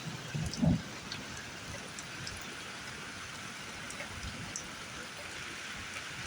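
Heavy rain falling steadily, an even hiss with scattered drip ticks and a couple of short low thumps within the first second.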